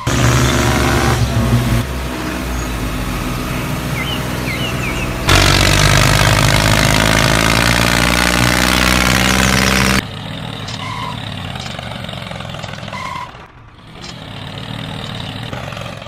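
Tractor engine running, in stretches that change abruptly: a loud start, a steadier run, a louder stretch with the pitch wavering from about five seconds in, then a quieter idle from about ten seconds in.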